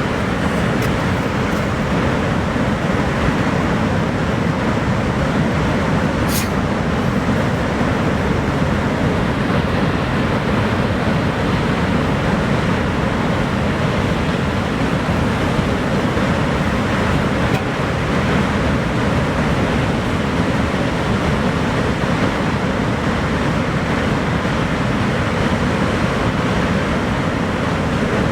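Niagara Falls: a steady, deep rush of heavy falling water, unchanging throughout, with one brief click about six seconds in.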